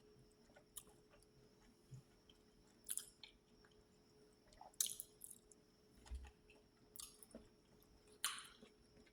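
Faint chewing with wet mouth clicks and smacks, a few short ones every second or two.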